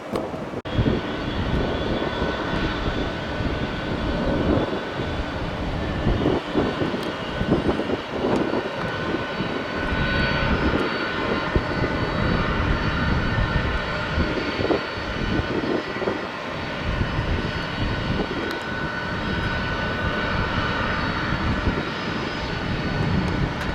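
Aircraft engines of a passing airliner running loud, a rough, fluctuating rumble with a steady high whine above it.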